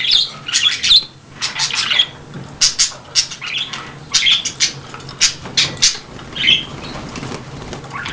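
Baby budgerigars bathing in a water dish: repeated short bursts of wing-fluttering and splashing, with chirps among them.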